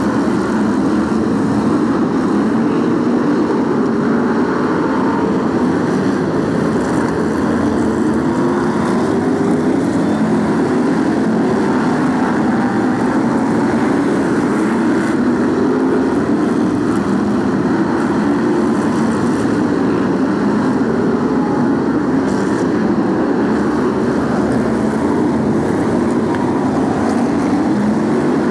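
A pack of BriSCA F1 stock cars racing, their V8 engines running hard in a continuous loud din whose pitch wavers up and down as the cars lap the oval.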